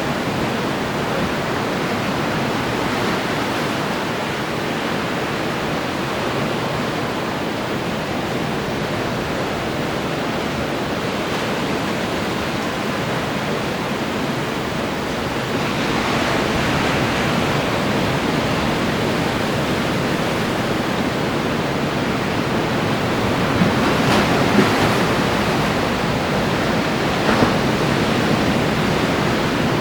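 Ocean waves breaking and washing on the shore in a steady rush of surf, with a louder wave about halfway through and another crashing around three-quarters of the way in.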